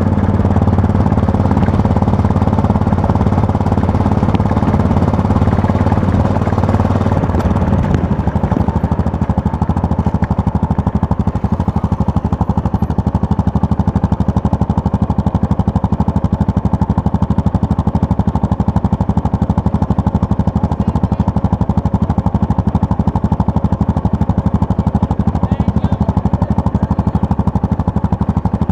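Yamaha MT-03 motorcycle engine heard from the rider's seat, running steadily. About eight seconds in the note drops, and the engine runs on at low revs with a fast, even pulsing.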